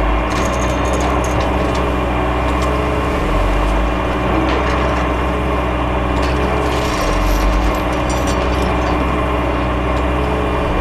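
A motor vehicle's engine running steadily, an even low hum, with light rattles and clicks above it in places.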